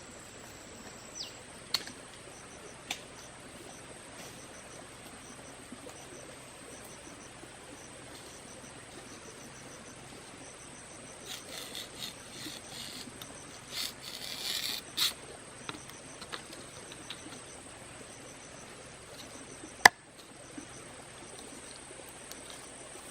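Forest insects keep up a steady high-pitched buzz with rows of short repeated chirps. A few clicks and a crackling, rustling stretch come around the middle, and one sharp, loud snap near the end stands out as the loudest sound.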